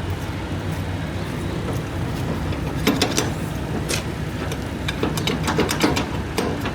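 Semi truck's diesel engine idling steadily, with irregular sharp metallic clicks and clanks in the second half, from the trailer being unhooked.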